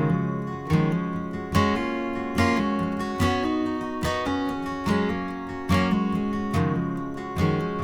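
Acoustic guitar strumming chords in a song's instrumental intro, one strum a little less than once a second, each chord ringing and fading before the next.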